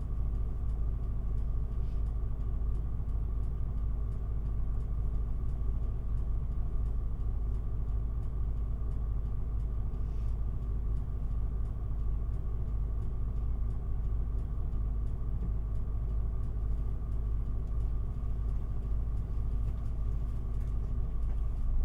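Cabin sound of an Isuzu Erga city bus: its diesel engine runs at a steady pitch under a constant low rumble, with no change in engine speed.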